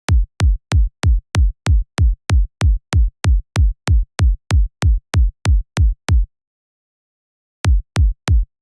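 Synthesized electronic kick drum, played alone in a steady loop of about three hits a second; each hit is a sharp click over a deep thump that falls in pitch. The loop stops for over a second, then three more hits come near the end.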